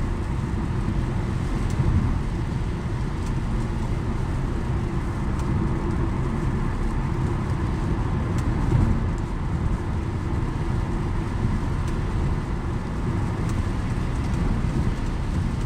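Steady road and engine noise inside a moving car's cabin at highway speed: a low, even rumble.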